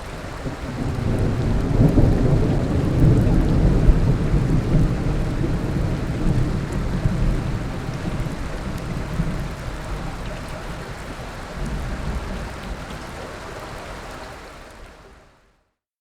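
Thunderstorm: a long, deep rumble of thunder over the hiss of rain. It starts suddenly, builds to its loudest about three to four seconds in, then slowly rolls away and fades out near the end.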